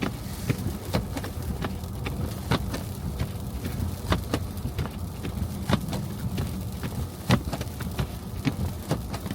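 A car driving, with a steady low rumble and irregular sharp ticks, a few each second.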